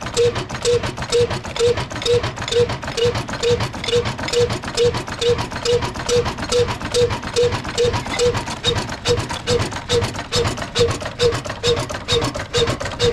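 Old Ruston-type slow-speed oil diesel engine running steadily, a regular beat a little over twice a second with a short tone and a clatter of knocks on each beat.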